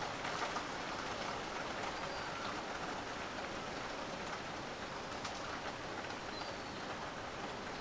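Steady rain falling during a thunderstorm, an even hiss of drops with a few sharper ticks.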